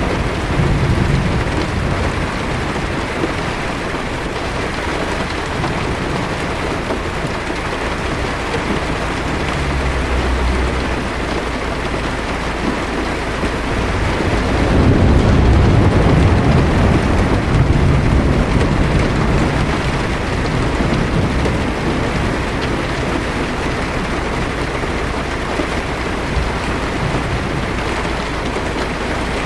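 Heavy rain falling on a car's roof and windshield, heard from inside the cabin, with a low rumble of thunder swelling about halfway through.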